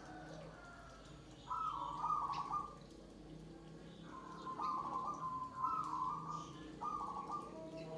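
Zebra doves (perkutut) cooing, a few repeated phrases of their song with short gaps between them.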